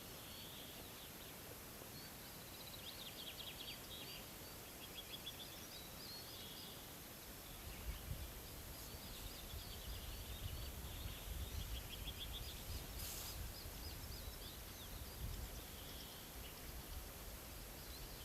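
Small birds singing in repeated short chirping phrases, with wind buffeting the microphone from about eight seconds in.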